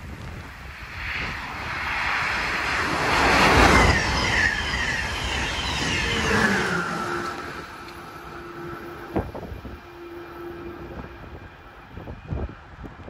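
Amtrak train with an ACS-64 electric locomotive passing at speed: the rush of wheels on rail builds to a peak about four seconds in, while a high electric whine falls in pitch as the locomotive goes by. It then fades to steady wind and rain noise, with a few short knocks near the end.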